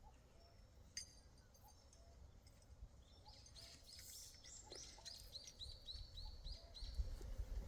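A small bird singing faintly: a quick run of repeated short, high, down-slurred notes, about three a second, starting about three seconds in and lasting some three seconds. A single click comes earlier, and a low rumble lies underneath.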